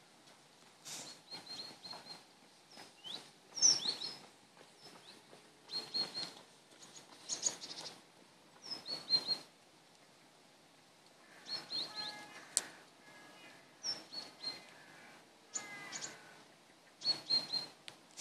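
Small birds chirping in short clusters of high, quick calls that come every second or two, with a few brief sweeping notes among them.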